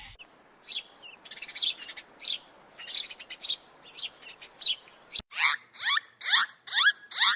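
Birds chirping: scattered short high chirps at first, then, after an abrupt cut about five seconds in, a regular run of louder chirps, each a quick downward sweep in pitch, about two a second.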